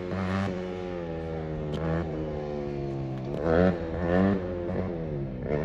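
A vehicle engine being revved: its pitch sags, is blipped up twice in quick succession about two-thirds of the way through, then falls back.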